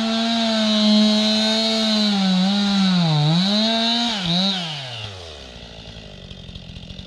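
STIHL MS 261 two-stroke chainsaw running at full throttle through the poplar's wood, its pitch dipping briefly as the cut loads it. About four seconds in the throttle is released and the engine winds down to a low idle.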